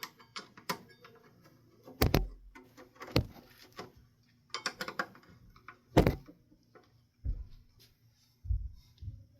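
A series of separate sharp knocks and clunks, roughly one a second, two of them louder than the rest, with a few duller thumps near the end: hard parts knocking together as they are handled.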